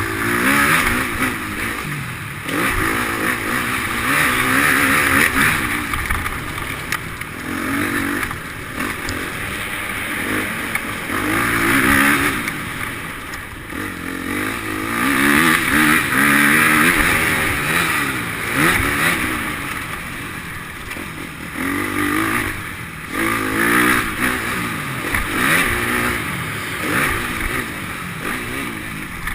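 Motocross bike engines revving as they ride an indoor track, each engine note climbing and dropping again every few seconds as the throttle opens and shuts, with more than one bike heard at times.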